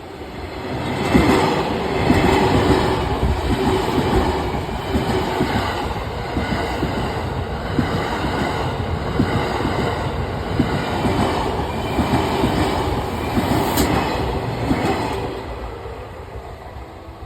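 E001 series Train Suite Shiki-shima passing through a level crossing, its wheels clattering over the rail joints. The sound builds about a second in, runs loud and even, and dies away near the end.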